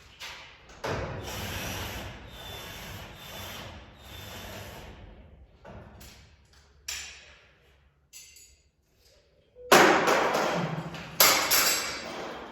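Scraping and rubbing noises, then a few separate knocks, with the loudest knocks and scrapes near the end.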